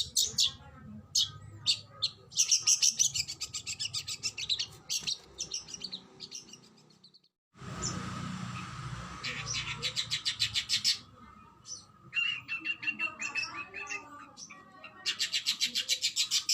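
Oriental magpie-robin (kacer) singing in rapid-fire bursts of fast, evenly repeated sharp notes, the "tembakan" style prized in song training. The song breaks off briefly about halfway, then resumes, with a lower-pitched trill a little later.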